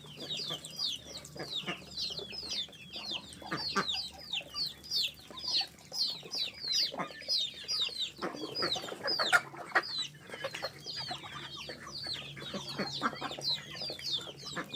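A flock of ducklings peeping without pause while feeding: many short, high peeps, each sliding down in pitch, several a second, with scattered clicks and rustles underneath.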